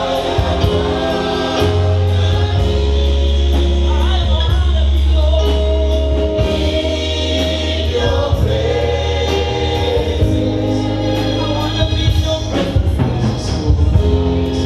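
Gospel music: a choir singing over held bass notes and a steady beat.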